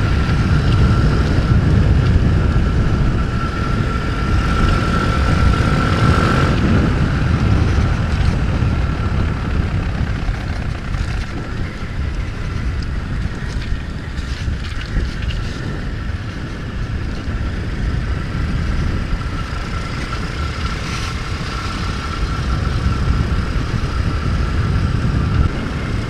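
Single-cylinder Nitro Sky 125cc pitbike engine running steadily under way, with a thin steady whine above it and wind rumbling on the camera microphone.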